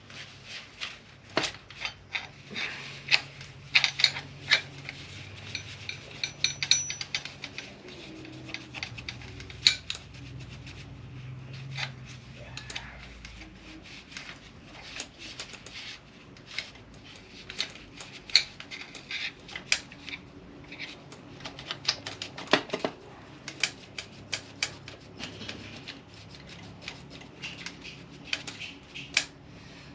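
Irregular clicks, taps and scraping of small hand tools and hard plastic and metal parts of an RC car being handled and worked on.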